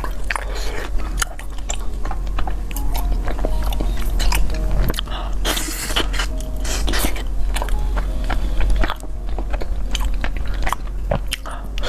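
Close-miked eating sounds: biting and chewing food, a continuous run of short mouth clicks and smacks.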